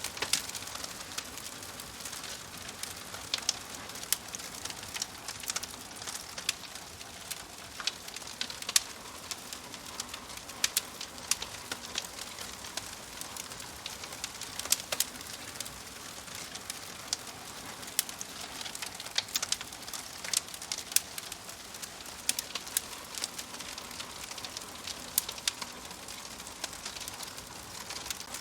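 Wood fire burning in a fireplace: a steady hiss with frequent irregular crackles and sharp pops from the logs.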